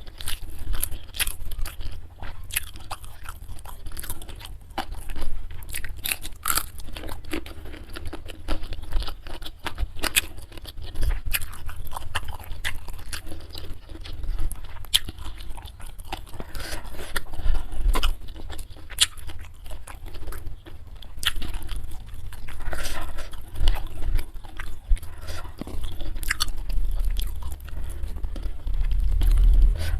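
A person chewing and biting crisp food close to the microphone: a steady run of sharp, wet crunches and mouth sounds.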